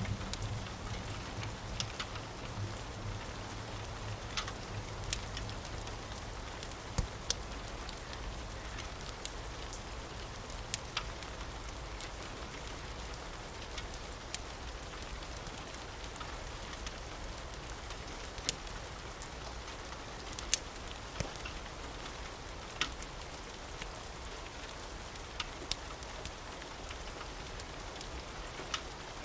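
Steady rain with scattered sharp pops and crackles from a wood fire, a few of them louder than the rest. A low thunder rumble fades out over the first few seconds.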